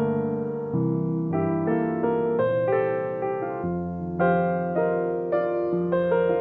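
Solo piano playing a gentle, slow piece, with chords and a melody and new notes struck about every half second to a second.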